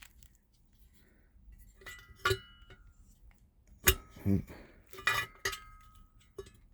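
Metal parts of a diesel heater clinking and knocking as they are handled and fitted back together: a few sharp clinks with a short metallic ring, the loudest about four seconds in.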